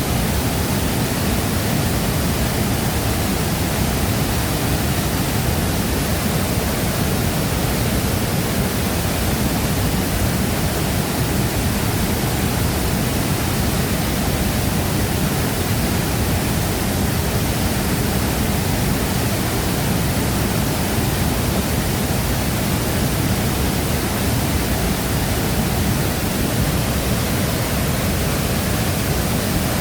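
Waterfall roaring: a large river waterfall's heavy water plunging into its pool, an even rushing noise with deep rumble and hiss, unbroken and unchanging.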